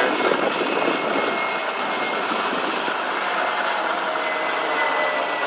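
Motorized bicycle's gas engine running steadily while riding, with a faint thin whine that eases slightly lower in pitch.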